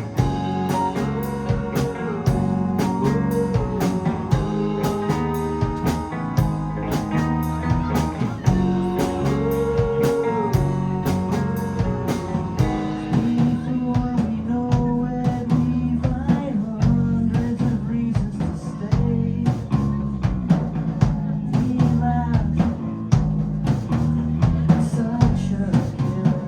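Live rock band playing a song, with a drum kit keeping a steady beat under electric guitar, bass and keyboards.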